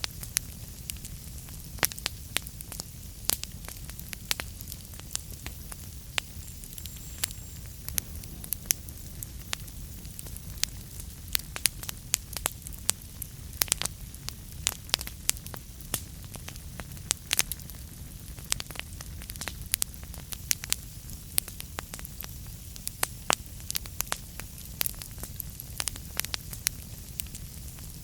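Wood fire burning in a fireplace: steady low rumble under frequent sharp, irregular crackles and pops.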